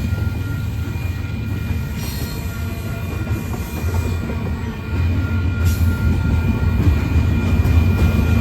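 Freight train rolling past, a steady low rumble of wheels on rail with a faint high-pitched wheel squeal held over it, growing a little louder about five seconds in.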